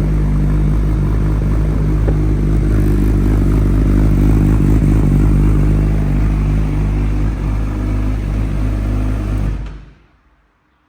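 Honda CBR1000RR SP2 race bike's inline-four engine running steadily through a full titanium Akrapovic WSBK exhaust, then stopping shortly before the end.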